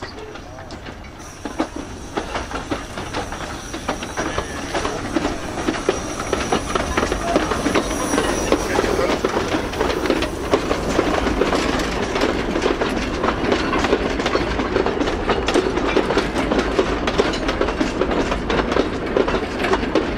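Narrow-gauge steam train of wooden goods wagons rolling past close by: the wheels rumble and clatter over the rail joints. The sound grows louder over the first several seconds as the wagons draw level, then stays loud.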